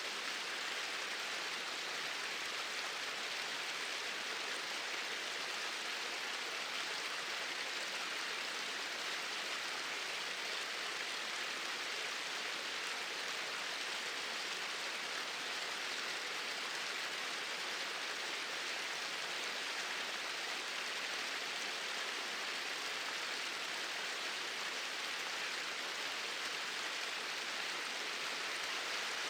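Small waterfalls pouring in a steady rush of falling water, an even hiss with no breaks or changes.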